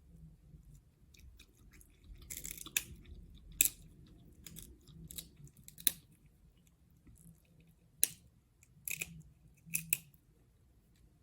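Close-miked eating of crab legs and shrimp: chewing, broken by about half a dozen sharp clicks and cracks and a few short crunchy bursts.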